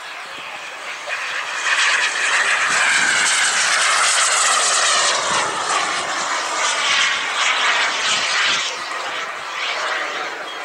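Single-turbine engine of a radio-controlled Rafale model jet at high power as it passes, the roar building quickly with a whine that falls in pitch as it goes by, then fading near the end.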